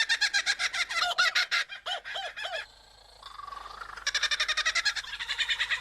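Lyrebird singing a medley of mimicked calls of other bird species: fast runs of repeated whistled notes, a short pause with one rising note about three seconds in, then another rapid run.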